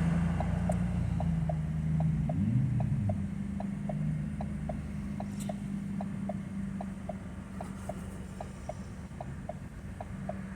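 Ford Focus 1.0 EcoBoost three-cylinder turbo engine droning low with the accelerator floored, the pitch briefly rising and falling about two seconds in, then the sound fading as the engine makes little power. Over it, an indicator relay ticks steadily, about three ticks a second.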